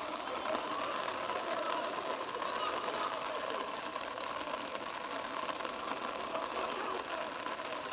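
Indistinct distant shouting and calls from players on a rugby field over a steady mechanical hum.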